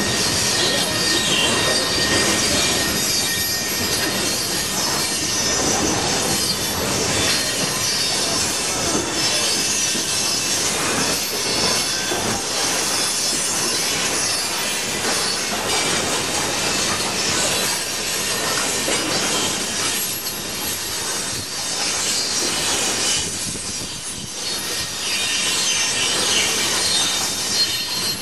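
Coal train hopper cars rolling past, with steel wheels squealing against the rails over a continuous rumble of wheels on track.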